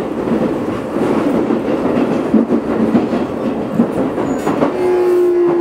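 Keio 8000 series electric train running, with wheel and rail-joint clatter heard from the car carrying the Hitachi GTO-VVVF inverter. Near the end a steady inverter–motor tone sets in, falling slightly in pitch: the GTO inverter's magnetic sound as the train slows.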